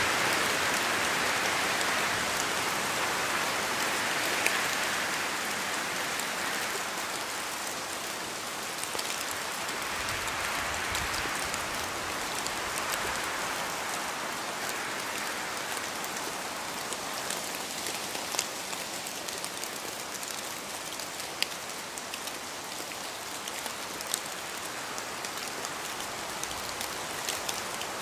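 Steady rain falling, an even hiss with a few sharp ticks from individual drops. It eases a little over the first several seconds, then holds steady.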